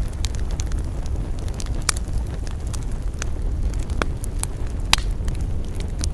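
Wood campfire burning: frequent irregular sharp crackles and pops from the wood over a steady low rumble, with a few louder pops about two, four and five seconds in.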